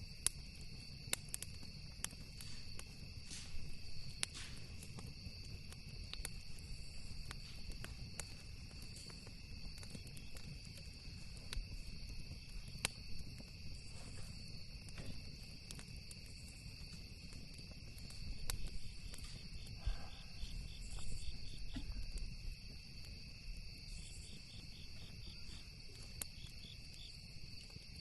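Campfire crackling with scattered sharp pops over a steady, high chirping of insects, with a low rumble underneath. Past the middle a faster pulsed chirping joins in.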